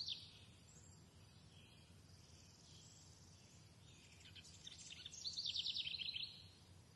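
Faint birds chirping, with a fast run of short, high repeated notes about four to six seconds in.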